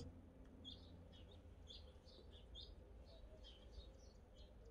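Faint bird chirps, a string of short high notes about three a second, over a faint low background rumble.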